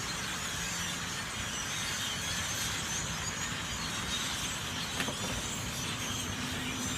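Dense chorus of many small birds chirping and chattering all at once, with a faint low hum underneath.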